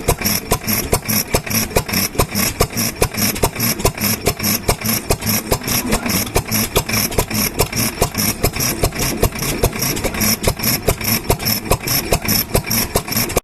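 Large Hunter water-cooled single-cylinder stationary oil engine running, with a steady, rapid, even exhaust beat.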